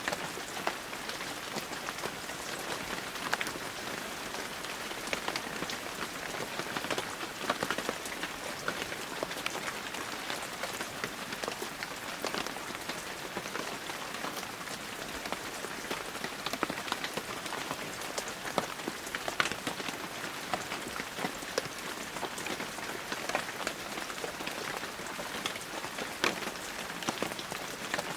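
Steady heavy rain falling on the ground and foliage, a constant hiss dotted with many separate drop hits.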